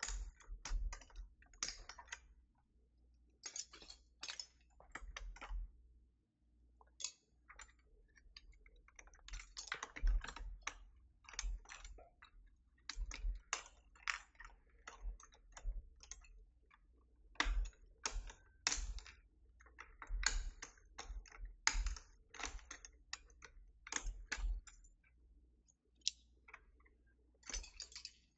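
Keys being pressed on a Keychron V6 Max mechanical keyboard: irregular clicks, sometimes in quick runs, sometimes single, with short pauses between.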